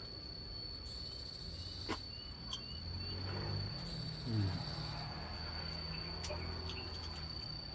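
A steady, unbroken high-pitched insect trill, like a cricket, with a low hum underneath and a few faint clicks.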